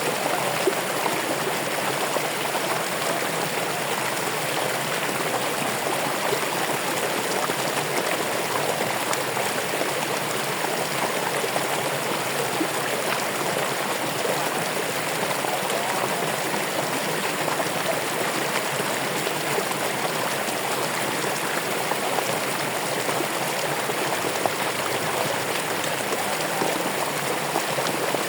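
Running water of a stream flowing steadily over rocks, an even splashing and burbling.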